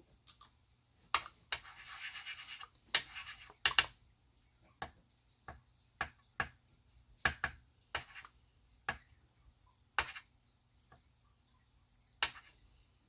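A marker tip scratching across glossy photo paper in a series of short, irregular strokes, with one longer stroke about two seconds in.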